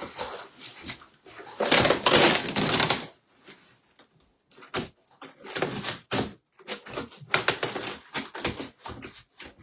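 Tape being pulled off a cardboard box, with one long loud rip about two seconds in, then scattered crackles, taps and rustles of cardboard and wrapping.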